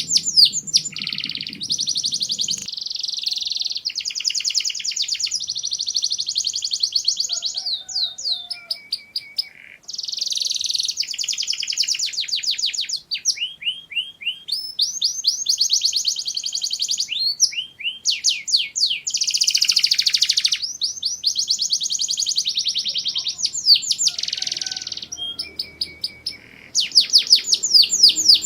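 Domestic canary singing: long runs of fast trills and rolling notes, broken by short pauses and a few sweeping whistles.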